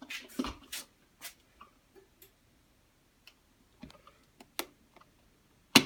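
A few irregular sharp clicks and taps, several in the first second and a louder one near the end.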